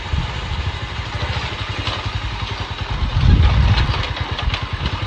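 Motorcycle engine running while the bike is ridden, its low pulsing swelling louder about three seconds in. A few light clicks come near the end.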